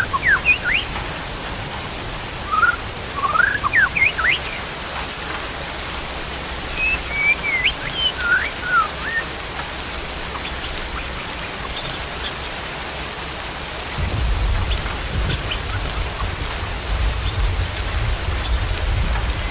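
Wild birds giving short whistled, sliding call notes over steady rain, with thin high chirps taking over in the second half. A low rumble comes in about two-thirds of the way through.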